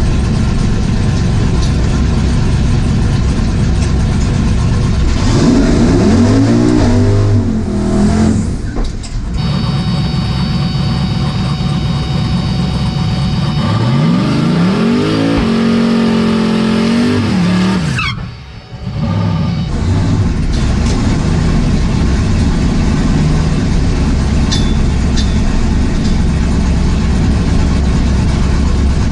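Drag car's engine running loudly, revved up twice, the pitch climbing and falling back each time, about six and fifteen seconds in.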